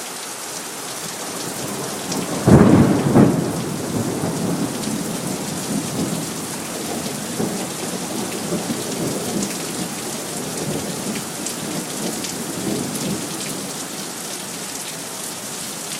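Steady rain falling, with a sudden loud thunderclap about two and a half seconds in that rolls on as a low rumble, fading over the next ten seconds or so.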